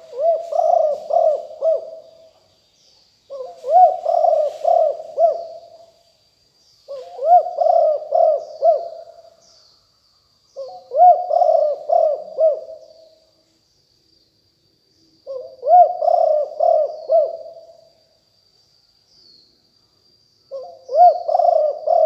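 Spotted dove cooing: six repeated phrases of several coos each, a pause of one to two seconds between phrases, with faint high chirps of small birds behind.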